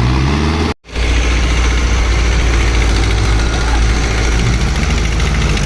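Tractor diesel engine running steadily with a deep low hum; the sound drops out completely for a moment a little under a second in, then the engine carries on.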